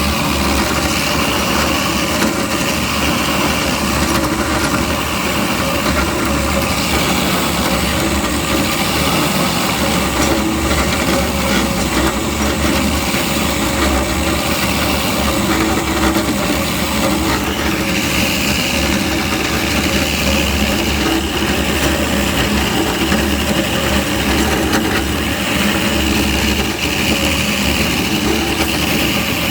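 Three-phase DFG250 concrete floor grinder running steadily, its three PCD shoes grinding the coating off a concrete deck. A higher hiss comes up about eighteen seconds in and eases off near the end.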